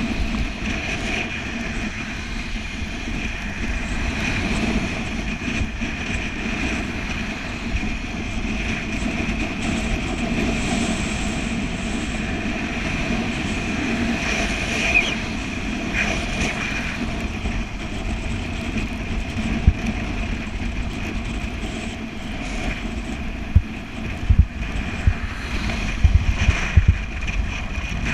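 Steady riding noise from a bicycle at speed, wind and tyres on the road, with a low rumble; near the end, several sharp knocks of wind buffeting the microphone.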